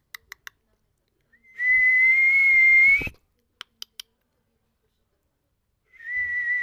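Pet parrot whistling: one steady, even-pitched whistle of about a second and a half that rises slightly at its end, then a second, shorter whistle near the end. A few faint clicks come before and between them.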